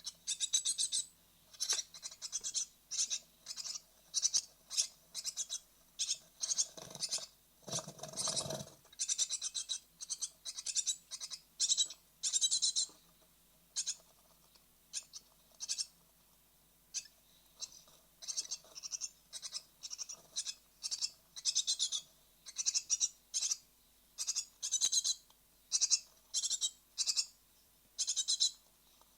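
Great tit nestlings close to fledging, calling insistently: rapid, high-pitched begging calls in short bursts, with a lower rustling noise about seven to eight seconds in.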